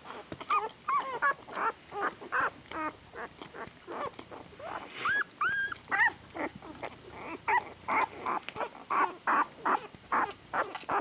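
Eight-day-old puppies squealing and whimpering in short, high, rapidly repeated cries, several a second.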